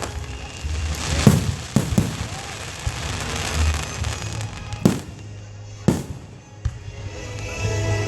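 Aerial fireworks exploding: about five sharp booms over several seconds, with a stretch of crackling in the first half.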